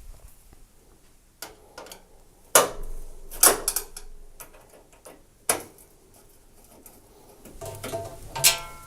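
Scattered clicks and taps of a Torx screwdriver and its screws on a tumble dryer's metal front panel as the panel screws are undone, with a short metallic ring near the end.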